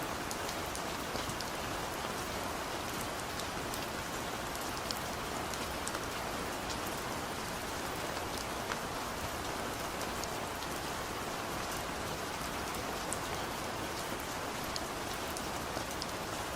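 Steady rain falling, an even hiss with many individual drops pattering and ticking on a hard surface.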